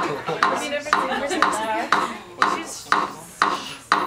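A steady ticking beat: sharp taps about twice a second, with voices faintly between the taps.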